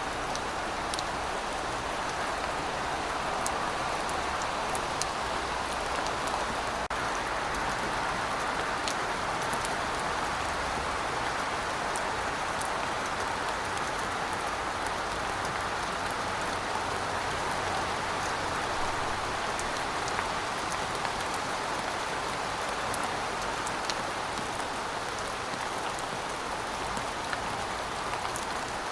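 Steady heavy rain falling, with a dense even hiss and scattered sharp drips of individual raindrops.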